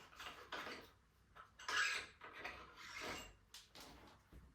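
Irregular rubbing and scraping strokes of hands working at a mountain bike's front end, handling the thru-axle and front wheel.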